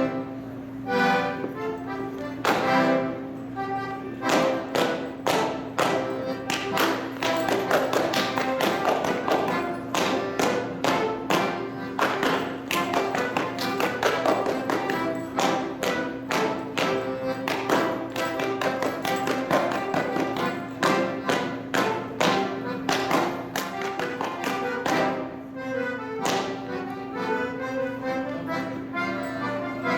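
Accordion-led Bavarian folk dance tune with the quick, rhythmic hand slaps, claps and stomps of a Schuhplattler dancer striking thighs, knees and shoe soles. The slapping starts about four seconds in and stops about twenty-five seconds in, leaving the music alone.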